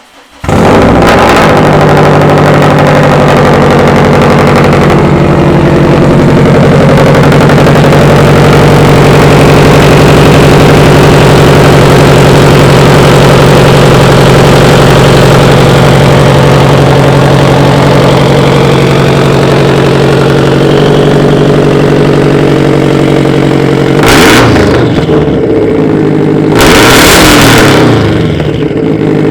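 2015 Subaru WRX STI's turbocharged 2.5-litre flat-four starting up and idling through a straight-piped Tomei exhaust with a catless downpipe, then revved briefly twice near the end.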